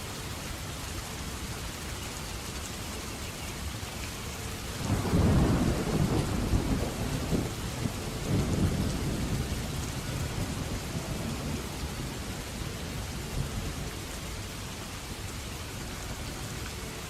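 Steady rain falling, with a roll of thunder that breaks in about five seconds in, rumbles in two surges and slowly fades away under the rain.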